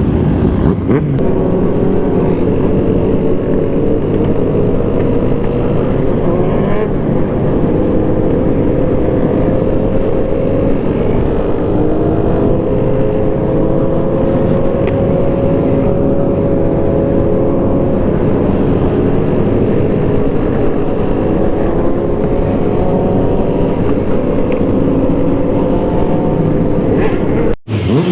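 Motorcycle engine running at a steady cruise with heavy wind rush, its pitch rising slowly as it pulls along. Near the end it briefly drops out, then revs up and down.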